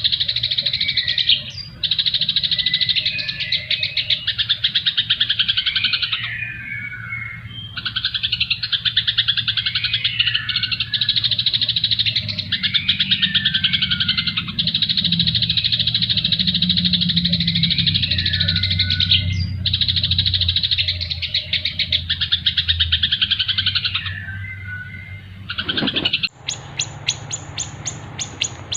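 Recorded songbird chatter used as a training song for caged birds: rapid, dense chirping phrases several seconds long separated by short pauses. Near the end the song changes to a faster, higher series of ticking notes.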